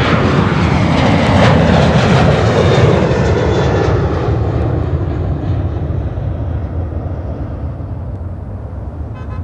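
Jet airliner's engines at takeoff power passing close: a loud roar whose pitch falls as it goes by, then slowly fading over several seconds.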